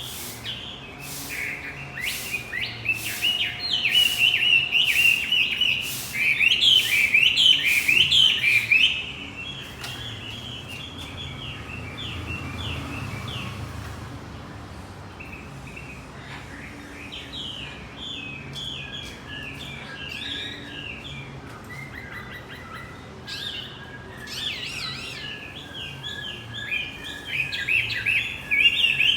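Male wambi macet singing: fast, repeated high chirping phrases, loud for the first several seconds, softer through the middle, and loud again near the end.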